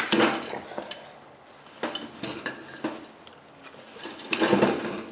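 Small metal parts clinking and rattling as they are handled, in three bunches of clicks: at the start, around two seconds in, and about four and a half seconds in.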